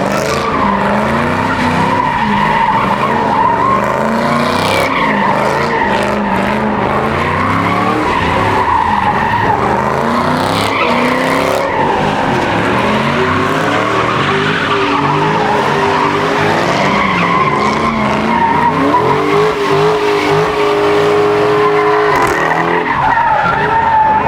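Car spinning its tires in a sustained burnout, the tires squealing steadily while the engine revs rise and fall. The revs hold steady for a few seconds near the end.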